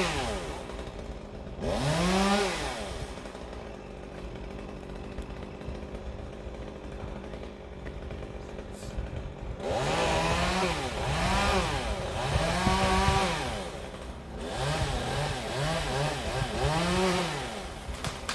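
Chainsaw revved in short bursts, each rising and falling in pitch, dropping back to a low idle between them: one rev about two seconds in, then a run of revs from about ten seconds, including several quick blips near the end.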